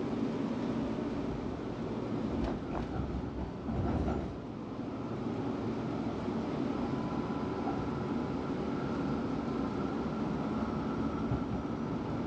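Melbourne tram running along its rails: a steady rumble, with a few clicks and knocks about two to four seconds in.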